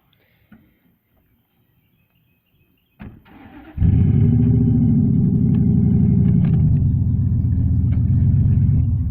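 Truck engine cranking briefly about three seconds in, catching a moment later and then running steadily and loudly with a low hum.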